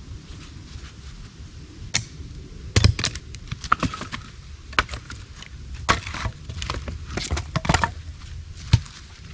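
Wood being chopped and split with a hand cutting tool: a string of irregular sharp knocks and cracks, about a dozen strikes, the loudest about three seconds in and another near the end.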